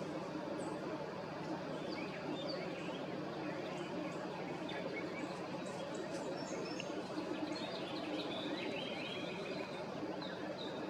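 Small birds chirping in short, scattered calls over a steady background hiss.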